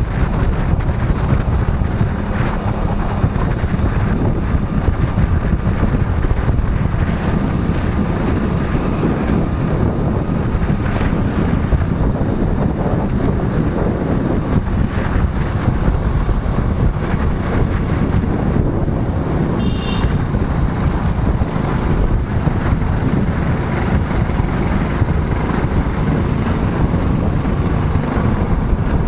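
Wind buffeting the microphone on a moving motorcycle, with engine and road noise underneath as a steady low rush. About twenty seconds in, a brief high-pitched beep sounds.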